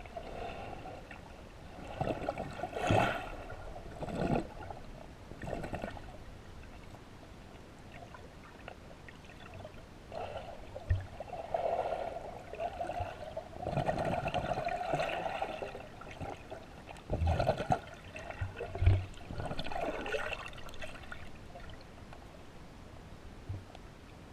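Water splashing and sloshing in irregular bursts, with quieter stretches between them.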